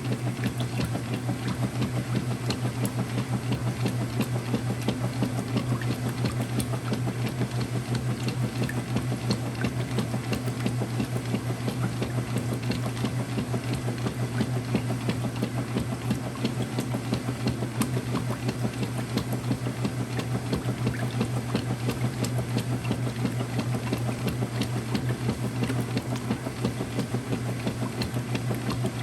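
Early-2000s Whirlpool direct drive washer running through a cycle: a steady motor hum with a fast, even pulsing.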